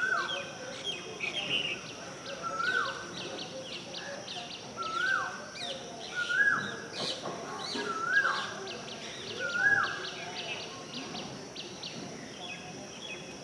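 Birds calling: one bird repeats a short call six times, each note holding level and then dropping in pitch, about every one and a half to two seconds. Quick high chirps run underneath.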